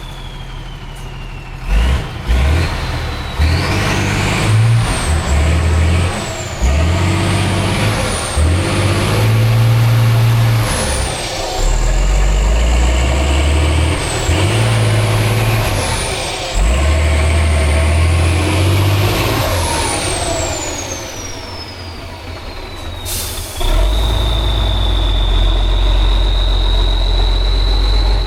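Heavy off-road trial truck's diesel engine revving hard in repeated surges, with a high turbo whistle climbing with each surge and sliding down when the revs drop. Near the end the engine holds steady at high revs with a level whistle.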